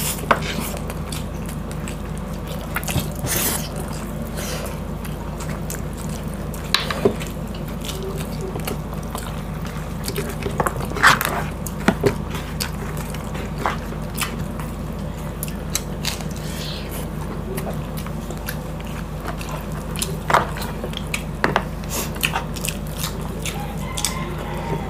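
Close-miked chewing and mouth sounds of people eating boiled pork by hand: irregular wet smacks and clicks over a steady low hum.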